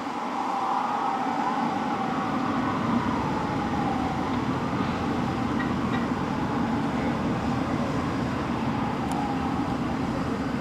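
Fire apparatus engine rumbling steadily as the rigs drive by, with a wailing siren that wavers up and down and fades over the first few seconds.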